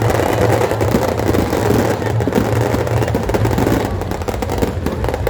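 Dense, continuous crackling of firecrackers and fireworks over a steady low hum.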